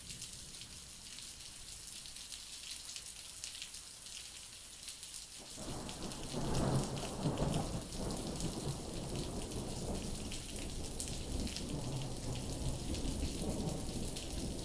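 Steady hiss of falling rain. About five seconds in a low rumble of thunder starts suddenly, is loudest a second or two later, then rolls on more softly under the rain.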